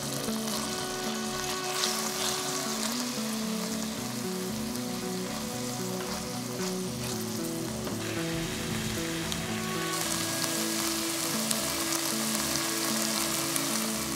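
Shallots, garlic and sun-dried tomatoes sizzling in olive oil in a stainless steel pan, the sizzle growing louder about ten seconds in. Soft background music plays underneath.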